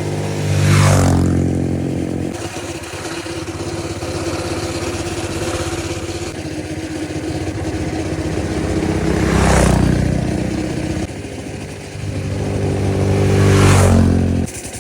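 Small minibike engines running and revving, swelling loud about a second in, again near ten seconds and near fourteen seconds, then easing off. There is some mechanical clatter, and the sound drops off suddenly just before the end.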